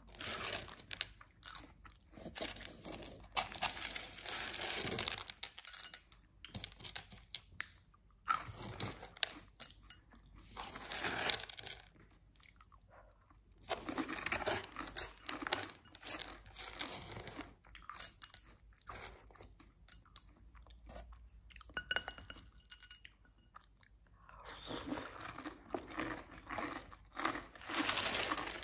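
Close-miked crunching and chewing of chocolate cereal, in bouts of a few seconds with quieter pauses between.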